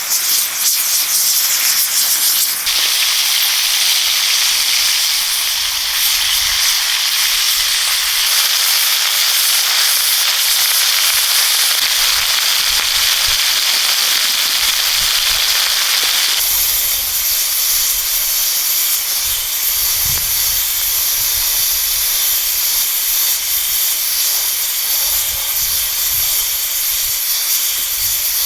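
Food cooking over a fire: a loud, steady hissing sizzle with crackling that changes abruptly twice.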